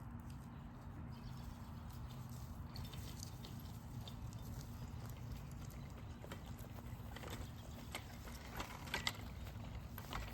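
A steady low rumble with scattered light clicks and taps, more of them in the last few seconds.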